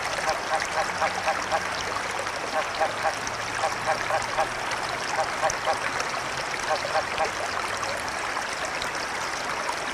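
Flowing river water with frogs croaking over it in runs of short, quick calls, about four a second, that stop and start throughout.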